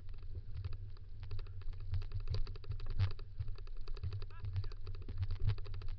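Dog-drawn kick scooter rolling over rough ground: a steady low rumble with rapid, irregular rattling clicks and knocks. A brief gliding call is heard faintly about four seconds in.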